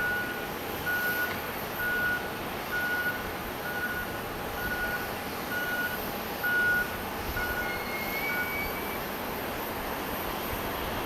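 A vehicle's reversing alarm beeping at a steady rate, a little under one beep a second, eleven times before it stops near the end, over steady background noise.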